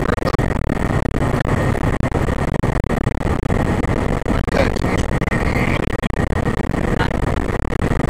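A fire engine's motor and road noise heard inside the cab while it is under way, a steady low rumble, with brief faint voice fragments now and then.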